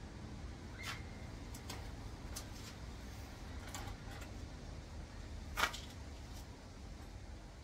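A handful of light clicks and taps over a low steady background hum, with one louder knock about five and a half seconds in.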